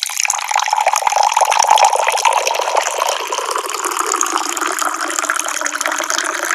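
Water from a tap pouring in a steady stream, starting abruptly and running on, its pitch creeping slightly upward.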